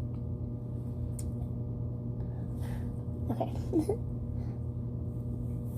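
Steady low hum with a few faint clicks, and a brief murmur of voice about three and a half seconds in.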